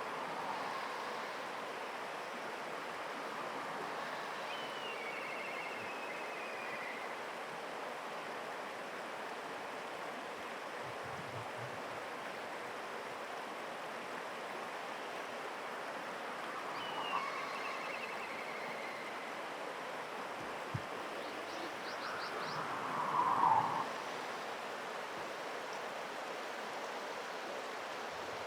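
Black kite giving its high, descending whistled call twice, over a steady rush of running water; a louder, lower bird call comes near the end.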